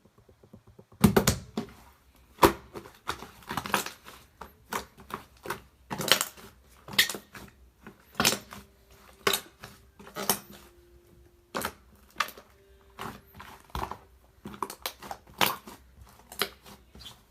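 Fluffy slime being pressed and squished by hand while being mixed, giving irregular sharp pops and crackles about one or two a second, starting about a second in.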